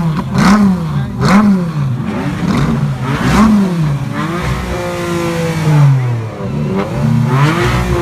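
A car engine revved hard in quick blips, its pitch jumping up and dropping back about once a second. Then comes a longer rev whose pitch winds down slowly, and one more blip near the end.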